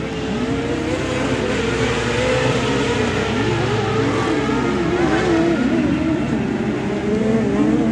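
Several kart cross racing buggies' engines revving hard, their pitches rising and falling as they accelerate and lift.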